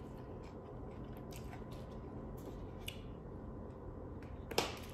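Quiet chewing and wet mouth sounds of a person eating, with scattered faint clicks, and one louder sharp click about four and a half seconds in.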